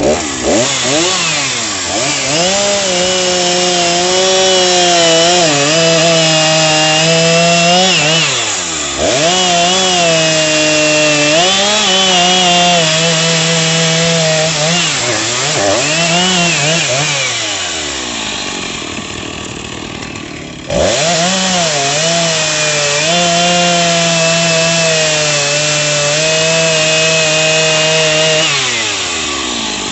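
Two-stroke chainsaw engine starting and running at high revs. Its pitch sags and climbs back several times, dips sharply and picks up again about two-thirds of the way through, then falls away near the end.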